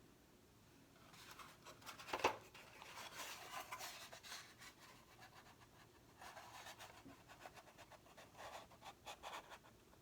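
Close-miked crinkling and scratchy rubbing of stickers being handled and pressed onto a box. It comes in two spells with a short lull between them, and there is one sharp click about two seconds in.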